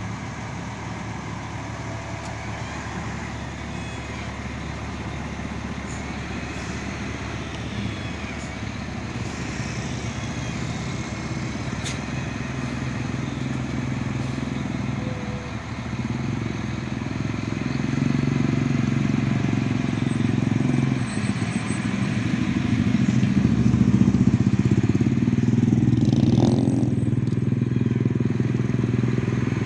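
Heavy diesel engine running steadily, getting louder about halfway through and louder again in the last third.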